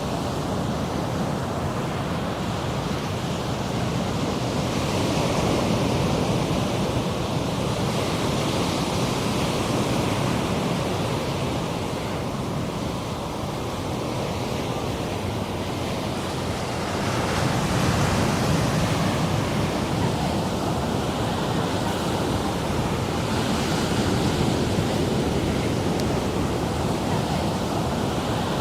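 Ocean surf washing in and out in slow swells, one wave louder about two-thirds of the way through. Wind brushes the microphone at times.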